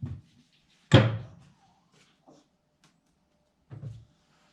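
A single loud thunk about a second in, like something heavy being set or banged down, followed by a faint knock and a softer thud near the end.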